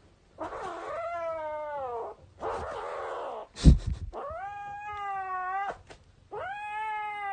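A cat yowling in three long drawn-out calls, the first falling in pitch. Between the first two calls there is a breathy noise and a short sharp knock.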